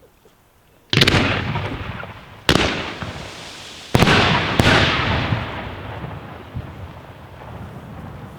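Aerial firework shells bursting: four sharp bangs, the first about a second in, the last two about half a second apart, each trailing off in a long rolling echo.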